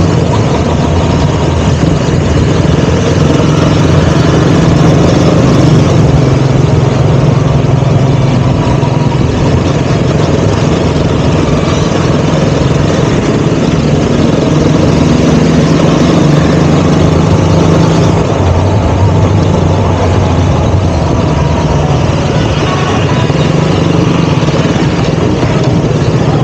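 KTM Duke 200's single-cylinder engine running at low, steady revs, with no revving up or down.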